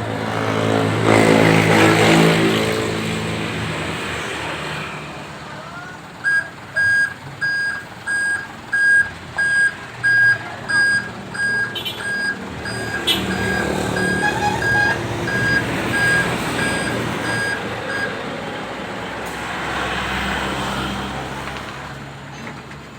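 Truck engine running, loudest in the first few seconds, then a reversing alarm beeping about once a second for some twelve seconds as the truck backs up.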